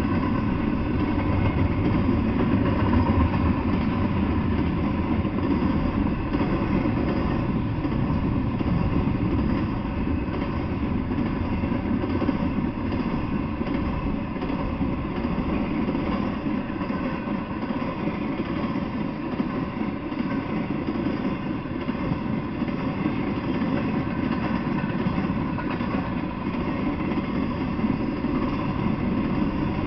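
Intermodal freight train's container-laden well cars rolling past: a steady rumble of steel wheels on the rails.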